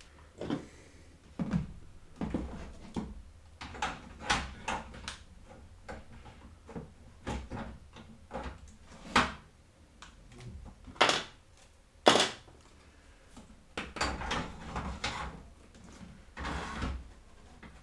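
Irregular clicks, knocks and short rattles of computer parts and cables being handled and fitted inside a PC case, with a few louder knocks about nine, eleven and twelve seconds in.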